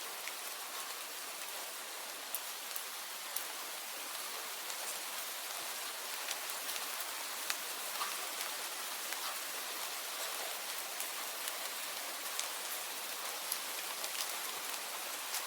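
Steady rain falling on a surface, a constant hiss with many separate drops ticking through it.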